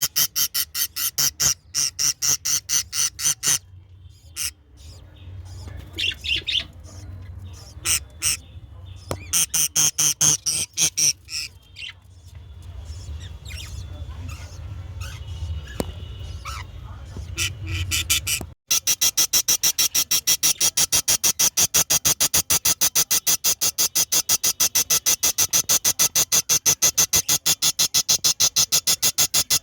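Birds chirping and squawking in rapid runs of short repeated calls, with gaps between runs, over a low hum. About two-thirds of the way in the sound cuts abruptly to a steady, fast, even pulsing.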